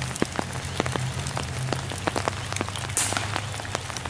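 Rain dripping onto leaves and undergrowth: an irregular patter of sharp drip ticks over a soft hiss, with one brief louder hiss about three seconds in.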